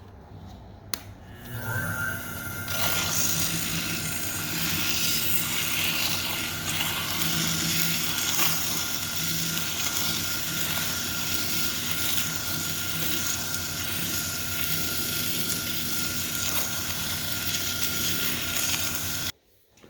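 Electric power tool starts up about a second in and runs steadily with a hum and a loud, even noise from its work, then cuts off abruptly near the end.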